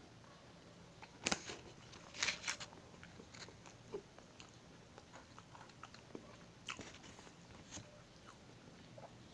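Mouth sounds of chewing crisp fried empanada pastry: a scatter of short crunches and crackles, with a louder cluster about a second or two in and another near seven seconds in, mixed with the crinkle of a plastic ketchup sachet being handled and squeezed.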